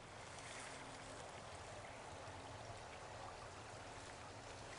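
Faint, steady rushing of a small creek's water flowing over rocks.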